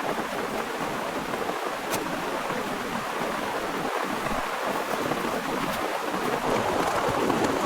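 Heavy rain falling steadily, with scattered faint drop clicks, growing a little louder near the end.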